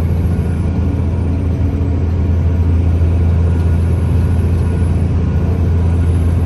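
Semi-truck diesel engine pulling hard under full throttle in sixth gear while climbing a grade, a steady low drone.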